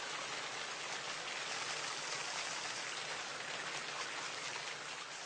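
Steady rain: a dense hiss of many drops, beginning to fade out near the end.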